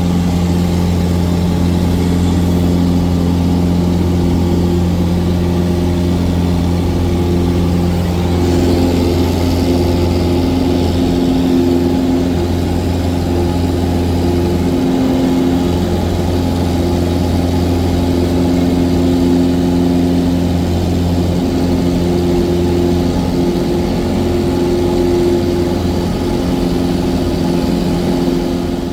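Cessna 177 Cardinal's four-cylinder piston engine and propeller running steadily: a loud, even low drone with several steady tones that hold their pitch throughout.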